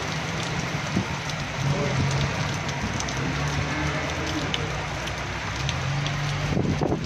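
Heavy rain falling on a wet street and pavement, a steady hiss flecked with drop ticks. A low hum comes and goes underneath it.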